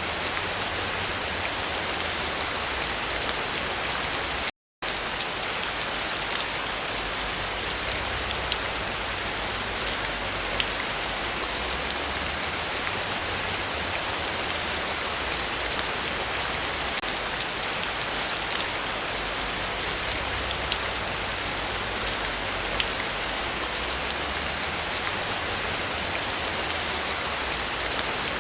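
Heavy rain falling steadily, a dense even hiss with fine drop patter. The sound cuts out completely for a moment about four and a half seconds in.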